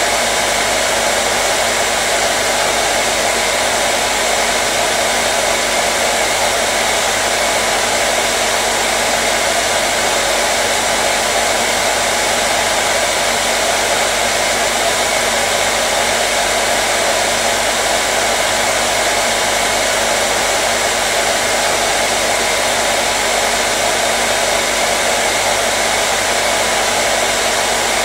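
Hair dryer blowing steadily: an even rush of air with a faint steady hum under it, unchanging throughout.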